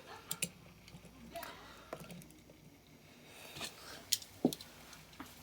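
Light scattered clicks and taps of small die-cast model trucks being handled and set down, a few sharp ticks about a second apart, the loudest pair near the end.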